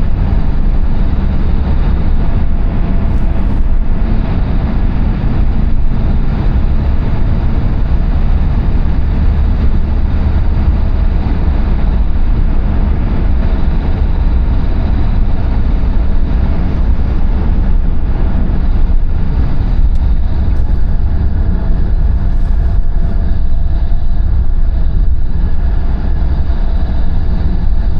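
Steady rumble of road and engine noise from a car driving through a long road tunnel.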